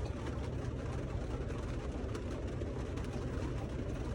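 Steady low rumble inside a truck cab, with faint light ticks over it.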